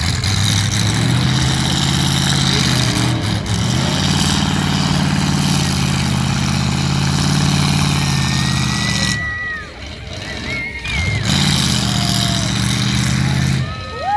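Loud truck engines running as trucks go past one after another, with a brief lull about nine seconds in before the next one comes through.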